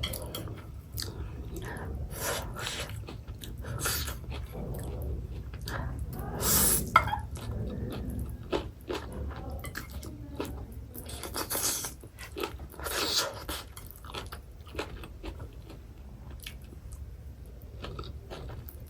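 A person chewing and crunching food close to the microphone, with irregular wet mouth noises and a few louder crunchy bites about six and a half, eleven and a half and thirteen seconds in.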